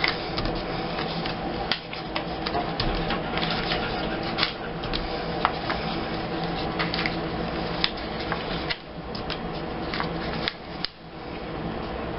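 Scrapbooking supplies being handled at a table: irregular small clicks and taps of paper and embellishments being placed, over a steady low hum.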